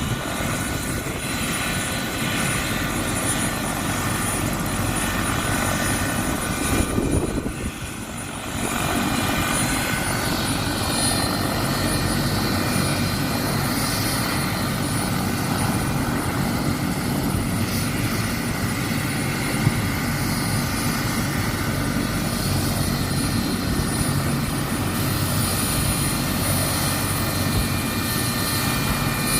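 Medical helicopter's turbine engine and rotor running steadily, with several high-pitched turbine whines over the rotor noise. The sound dips briefly about eight seconds in.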